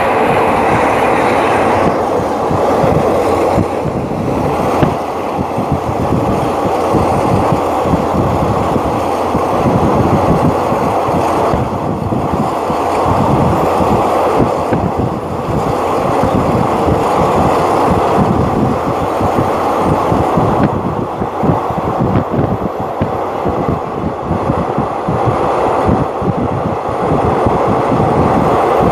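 Running noise of a moving passenger train heard from a carriage window: a steady rumble of wheels on rails with wind rushing past the microphone.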